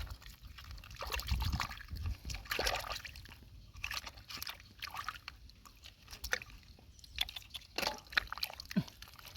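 Hands digging through wet mud and shallow water for clams, with irregular squelches, sloshes and small splashes.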